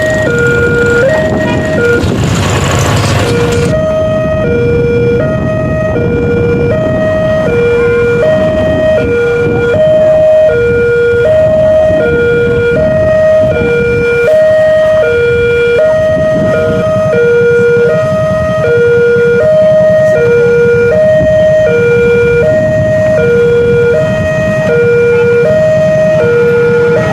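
Railway level crossing warning alarm sounding its two-tone electronic signal, a high and a low tone alternating about once a second, the sign that a train is approaching the crossing. A low rumble of engines runs underneath, and a brief rushing noise comes about two to four seconds in.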